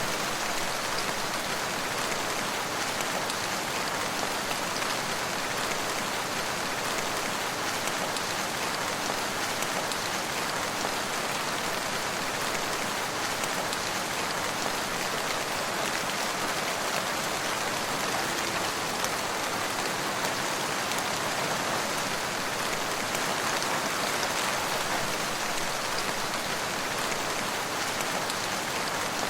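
Steady rain falling, an even, unbroken patter of raindrops on surfaces.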